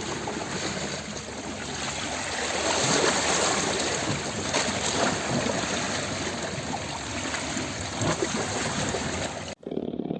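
Steady rushing water, a dense even noise that cuts off suddenly near the end.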